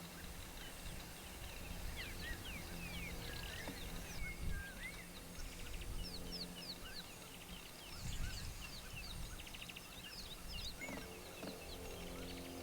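A chorus of wild birds chirping and whistling in short, quick calls over a low background rumble. Near the end a lower honking call begins.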